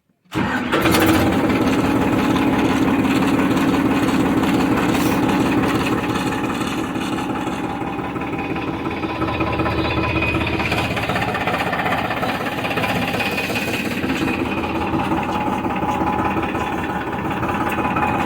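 Farmtrac tractor's diesel engine running steadily with a fast, even knocking beat. It begins abruptly, eases slightly in the middle and then picks up again.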